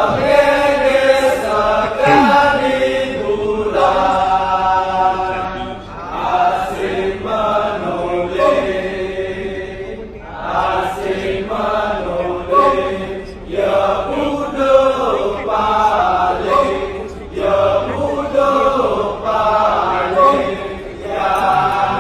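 Kecak chorus: a group of voices chanting together in long sung phrases, with short breaks between phrases every few seconds.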